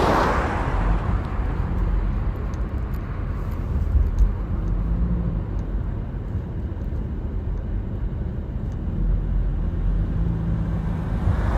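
Steady road rumble of a car driving, with a passing vehicle's whoosh fading at the start and another building near the end. A brief knock about four seconds in.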